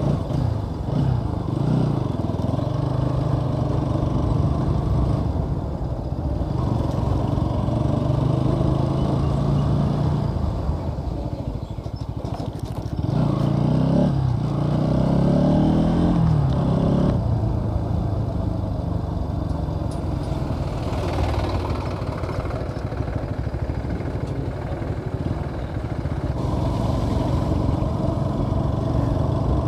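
Bajaj Pulsar NS200 motorcycle's single-cylinder engine running under way, steady for most of the time, with the engine note climbing in pitch as it accelerates about halfway through before settling again.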